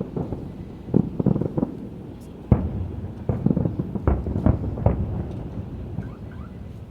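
Aerial fireworks bursting: a string of heavy booms and crackles, sometimes several within a second, with the biggest bangs about two and a half and four seconds in.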